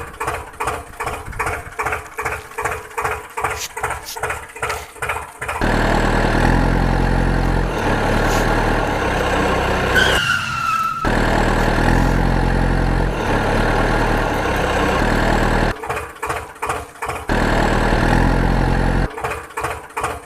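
Engine sounds: a rhythmic chugging of about three pulses a second, then a loud steady engine run from about five seconds in, with a brief falling squeal about ten seconds in. The chugging and running alternate again near the end.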